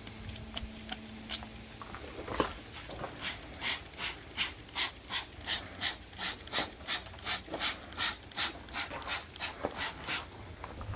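Hand trigger spray bottle of engine degreaser being pumped rapidly, about three squirts a second, each a short hiss with a click of the trigger. The spraying starts about two seconds in.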